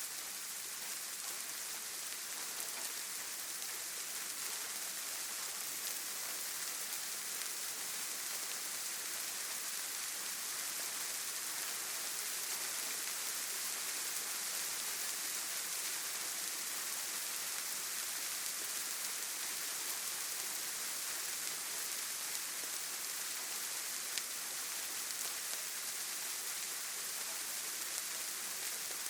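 Steady rain falling, an even hiss strongest in the high frequencies, with one sharper tick late on.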